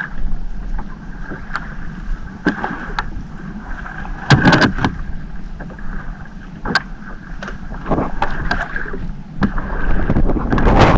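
A small fishing boat's motor runs steadily with a low rumble and a constant whine, while irregular sharp knocks and clatter come from hauling a crab gillnet aboard.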